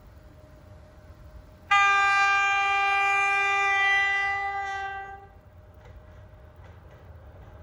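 Train horn sounding one long steady blast of about three and a half seconds, starting suddenly, then fading away and cutting off.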